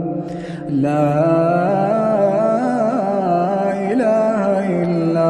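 A male Quran reciter chanting in a slow melodic style, holding long ornamented notes that bend up and down. There is a short break for breath about half a second in.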